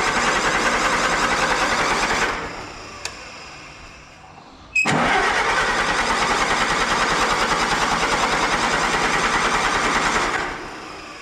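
Allis-Chalmers WD tractor engine being cranked by the starter in two long bursts, each cut off and winding down, with a click in the gap between them. The engine does not catch, amid an ignition fault that is suspected to be a shorted switch.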